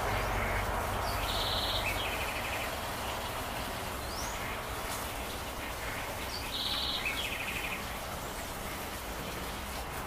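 A songbird calls twice, about five seconds apart. Each time it gives a short high note followed by a lower, rapid trill, over a steady background hiss and low hum.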